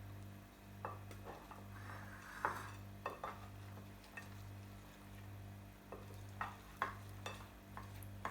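Light kitchen handling noises while fries are dressed with sauce: about a dozen short, irregular clicks and taps from utensils or containers, over a steady low hum.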